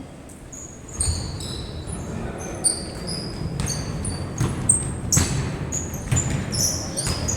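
Basketball game play: many short, high sneaker squeaks on the court and several sharp knocks of the ball bouncing, over a low murmur of voices.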